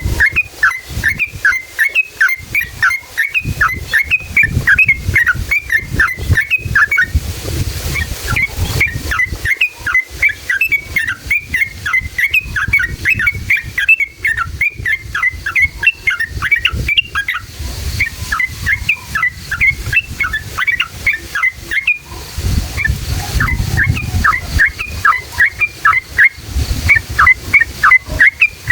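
Sooty-headed bulbul (trucukan) singing a long rolling song: runs of quick repeated chirping notes, about four a second and several seconds at a stretch, with short pauses between runs.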